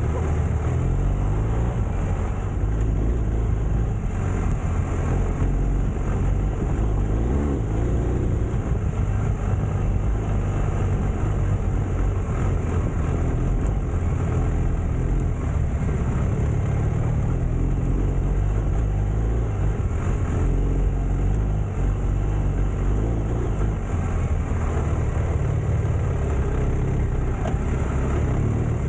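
Adventure motorcycle engine running steadily at low speed while riding a dirt trail: a continuous low rumble with no pauses.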